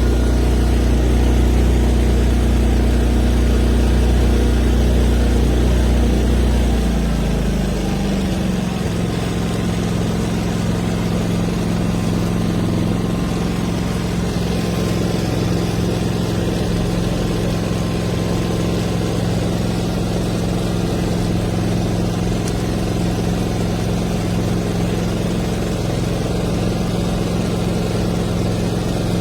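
Small four-stroke petrol engine of a 3500 W portable inverter generator running steadily. About seven seconds in, its engine note shifts and it settles into a slightly quieter, steady run.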